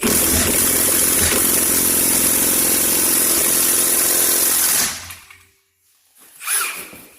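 Milwaukee cordless impact wrench hammering steadily on a seized suspension nut for about five seconds, then spinning down; the nut does not break loose.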